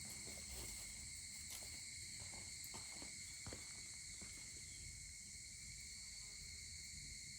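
Steady, unbroken shrilling of an evening insect chorus, with a few faint crackles and pops scattered through the first half from a wood fire burning.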